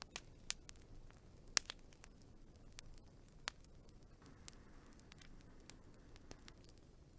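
Wood fire crackling: scattered sharp pops and snaps at irregular intervals over a faint low hiss, the loudest pop about a second and a half in.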